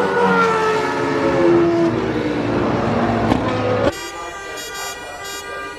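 Formula One car's V10 engine running loud, its pitch falling steadily, then an abrupt cut about four seconds in to a quieter sound of steady horn-like tones starting and stopping.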